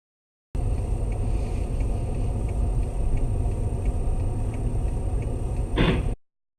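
In-car road and engine rumble picked up by a dashcam, with faint regular ticking about once every 0.7 seconds and a thin steady whine. A short, loud knock near the end, then the audio cuts off.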